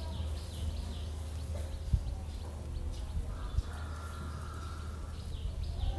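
Electric fan running with a steady low hum and a high chirping squeak that repeats at a regular pace, the kind of strange noise a faulty fan makes, with two sharp knocks near the middle.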